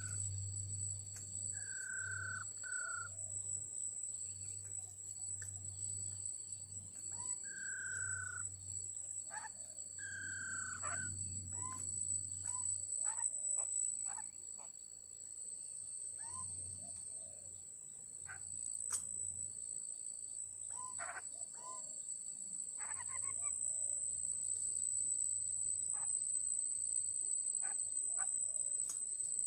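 A bird whistling short, falling notes several times, then giving scattered short, sharp calls, over a steady high-pitched buzz of insects.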